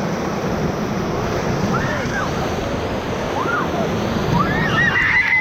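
Rushing whitewater of a river rapid around a raft, a steady loud roar of churning water. Short cries and yelps from the crew break through it, more of them near the end.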